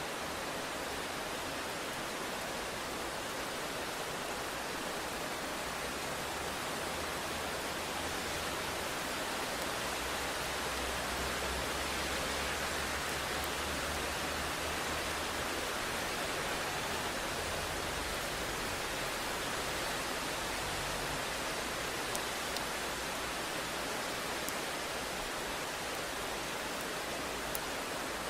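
Steady rain falling, an even dense hiss. A low rumble of distant thunder swells under it through the middle and fades again.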